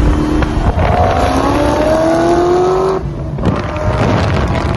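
Car engine accelerating hard on a race track, its pitch climbing steadily. About three seconds in it drops sharply at a gear change, then climbs again.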